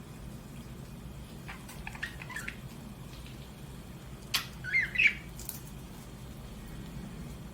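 Budgerigar chirping: a few faint chirps about a second and a half in, then a sharp click and a short run of louder chirps just past the middle, over a steady low hum.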